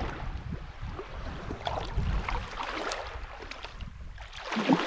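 Small waves lapping and splashing in shallow water at the shore, with wind rumbling on the microphone; a louder splash-like burst near the end.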